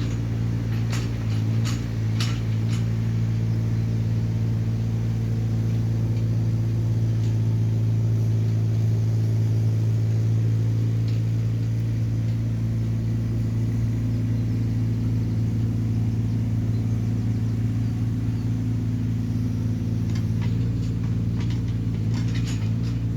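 Hyundai small excavator's diesel engine running at a steady speed, with a few sharp clanks in the first few seconds and again near the end.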